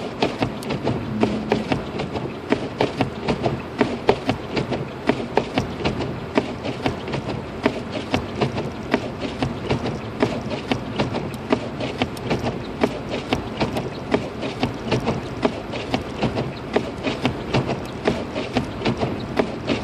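Inside the cabin of a 2006 Lexus IS250 AWD driving through a snowstorm: a steady road rumble with rapid, irregular knocks and clicks, about two or three loud ones a second.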